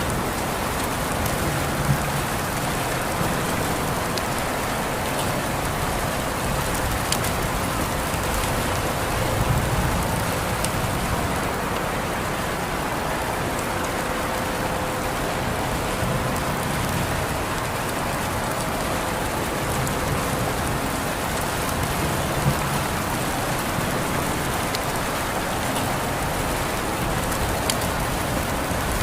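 Steady rain falling and pattering on surfaces, a constant hiss with scattered individual drop ticks.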